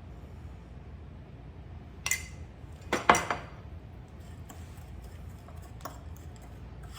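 A fork clinking and scraping against a bowl while mixing graham cracker crumbs with butter: a few sharp clinks, the loudest about three seconds in, then light scattered ticks.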